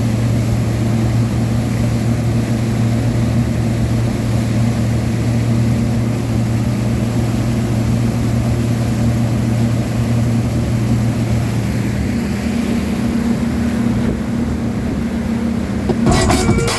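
Motorboat engine running at a steady speed, a constant hum under rushing noise. Music comes in near the end.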